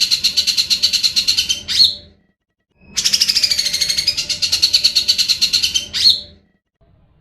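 Grey-cheeked bulbul (cucak jenggot) singing loudly: two long runs of rapid, evenly repeated notes, each closed by a quick upward-sweeping note, with a short pause between them.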